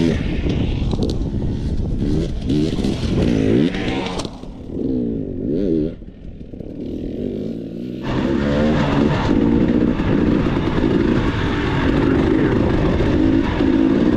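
Dirt bike engine revving in repeated rising and falling sweeps. It eases off about four seconds in and runs low and quieter for a few seconds. It comes back to hard, steady revving about eight seconds in.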